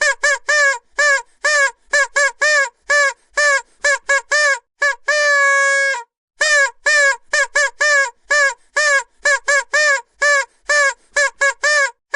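Vuvuzela blown in a rapid run of short, loud toots, two or three a second, each bending down slightly in pitch as it ends, with one longer held note about five seconds in.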